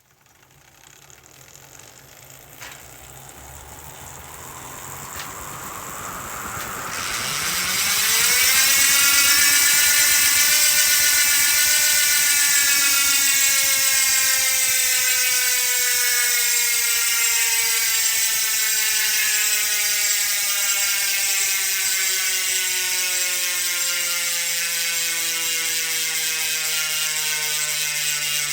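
Mavic 360 rear bicycle hub with a 40-tooth ratchet buzzing as the wheel freewheels. The buzz grows louder and higher over the first several seconds as the wheel speeds up, then holds loud and slowly drops in pitch as the wheel coasts down.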